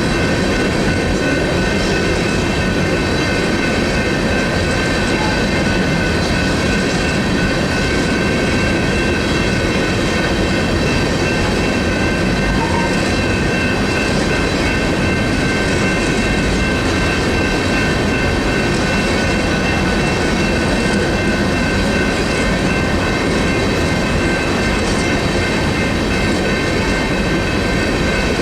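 Freight train rolling through a road crossing, a steady rumble of the cars on the rails, with the crossing's General Signals electronic bells ringing over it in several steady high tones.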